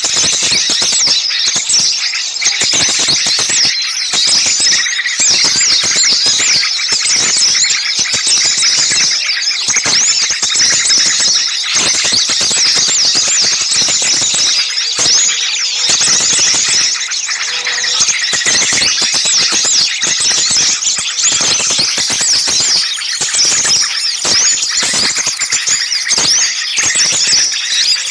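Dense, continuous chorus of many small songbirds chattering and calling at once, with rapid overlapping high-pitched chirps and short whistles. These are agitated, noisy calls of the kind used on a bird-lure track to draw small birds in.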